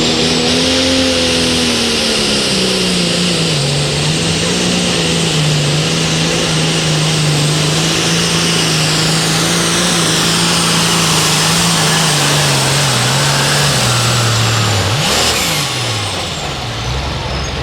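Light limited super stock pulling tractor's turbo diesel engine at full throttle under heavy load down the track, with a high whine above it. The engine note sags a little a few seconds in, holds steady, then falls away near the end as the pass finishes.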